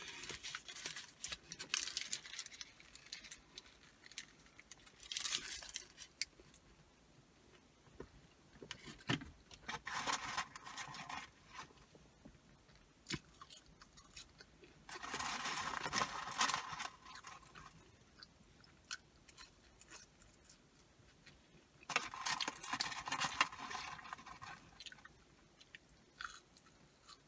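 A person chewing McDonald's fries and other fast food close to the microphone, in bursts lasting a second or two every few seconds, with small mouth clicks between.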